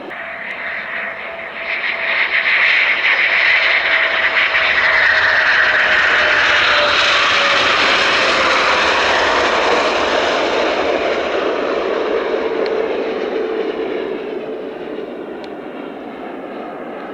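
Jet aircraft passing by, its engine noise swelling about a second and a half in and easing off over the last few seconds, with a whine that slowly drops in pitch.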